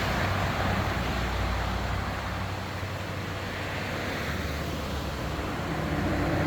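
Steady rush of a mountain river or stream flowing over rocks.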